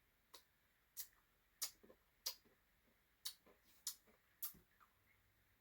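Quiet eating sounds: a series of about seven short, sharp clicks, roughly one every two-thirds of a second, from taking another spoonful of a Blizzard.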